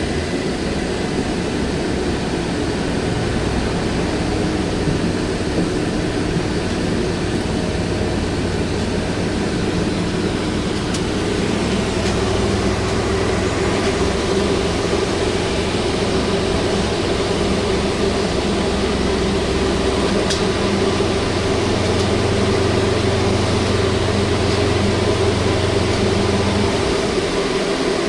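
Interior of a VMZ-5298.01 trolleybus under way: a steady hum from the drive and the road, with a low drone that drops away near the end.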